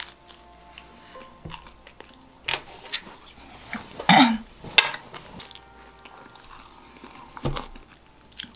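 A person biting and chewing almond-topped toast, with small crisp crunches and mouth sounds scattered through. About four seconds in comes a brief vocal sound, the loudest moment.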